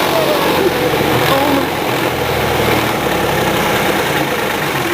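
Backhoe engine running steadily, its low note shifting a little about two seconds in.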